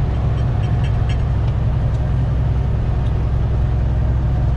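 Steady low drone of a semi truck's engine and road noise while driving, heard from inside the cab, with a few faint light ticks in the first second or so.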